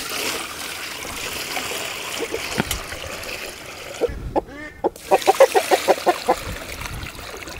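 Water pouring steadily into a chicken waterer, with hens clucking: a quick run of short calls about five seconds in.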